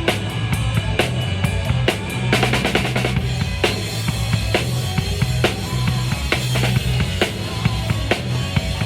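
Live band music: a drum kit keeps a steady beat of kick and snare over a sustained low bass line, with a quick run of drum strokes about two and a half seconds in.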